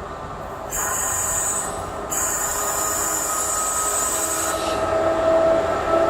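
Train approaching, hauled by a class 87 AC electric locomotive, growing steadily louder. A high thin steady squeal from the wheels and rails comes in about a second in, breaks off briefly, then stops a little after four seconds, while steadier lower tones from the approaching train swell toward the end.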